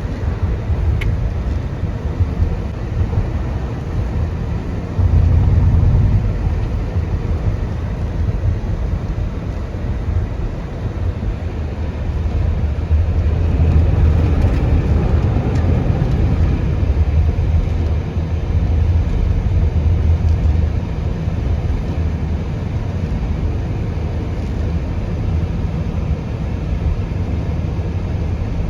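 Steady rumble of a car driving on the road, tyre and engine noise heard from inside the vehicle. It swells louder briefly about five seconds in and again about halfway through.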